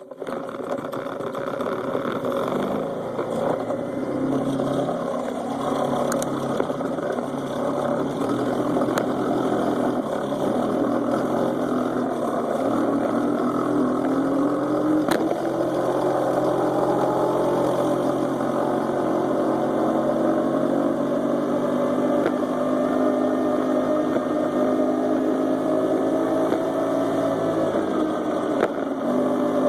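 Small engine of a friction-drive motorized bicycle running under way, its pitch rising in the middle and then holding steady. The sound is muffled and deep, heard from a phone in a holster clipped to the bike's front brake cable.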